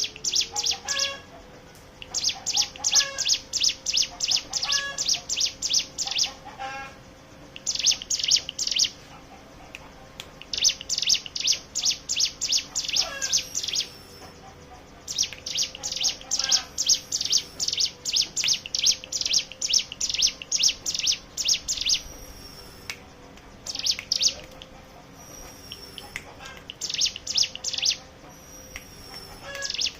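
Hill prinia (ciblek gunung) singing its fast, rattling 'ngebren' trill: bouts of rapidly repeated high notes, each a second to a few seconds long, broken by short pauses, with fainter scattered calls between.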